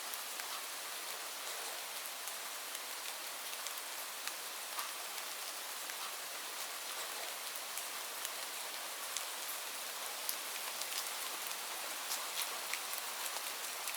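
Steady rainfall: a continuous hiss with many individual drops ticking sharply on a surface.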